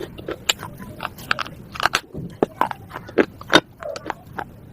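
Close-up biting and chewing of hard slate pieces: a quick, irregular series of sharp, crisp crunches and cracks.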